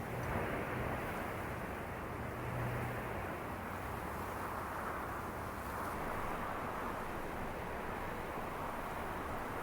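Snowstorm wind blowing around the van in slow swells, with a low steady hum in the first few seconds.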